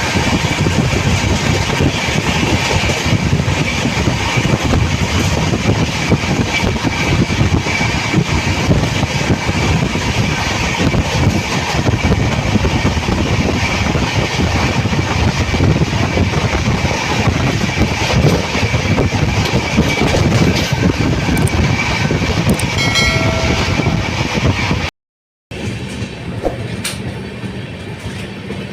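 A train running along the track: a loud, steady rolling rumble, with a brief horn sounding near the end. After a sudden break it goes on as a quieter rolling sound with a low steady hum.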